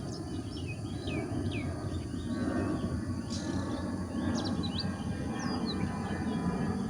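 Several birds chirping and calling in short rising and falling notes over a steady low rumble.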